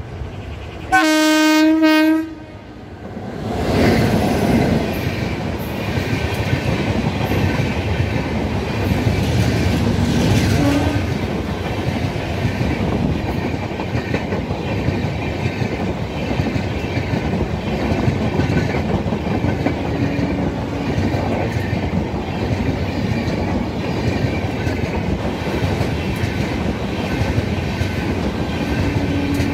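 An Indian Railways electric locomotive sounds one horn blast of just over a second. Its express of LHB coaches then passes close at speed, with a steady loud rumble and the clickety-clack of the wheels over the rail joints.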